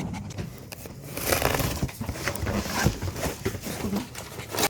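Rustling and scuffling as a mother dog nuzzles and mouths her newborn puppy, loudest about a second in.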